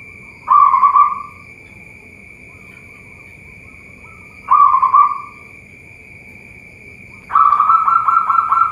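Zebra dove (perkutut) cooing in short, fast-pulsed phrases: two brief calls early and mid-way, then a longer run of cooing from about seven seconds in.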